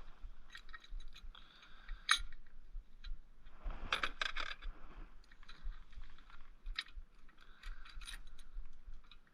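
Steel sockets, washers and nuts clinking and rattling against each other and a carriage bolt as a homemade bearing press is assembled, with a run of quick clinks about four seconds in.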